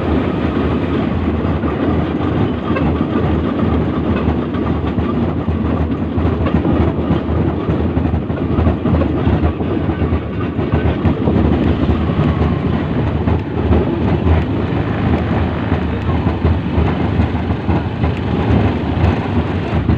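Iron-wheeled rail trolley rolling along the track: a steady rumble with a dense clatter of steel wheels on the rails.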